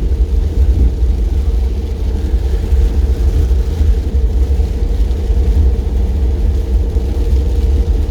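Steady low rumble of a car driving along, road and wind noise that holds an even pace.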